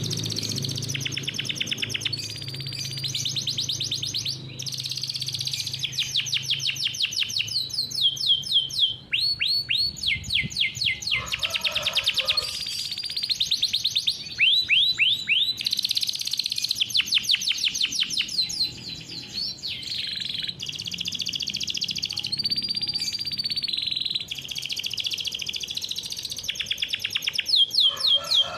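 Domestic canary singing a long, continuous rolling song of fast repeated trills, switching from one trill to another every second or two.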